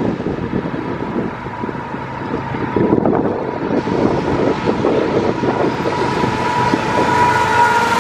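Freight train of GE diesel locomotives approaching and passing close by, its rumble and a steady high ring growing louder in the second half. Wind buffets the microphone.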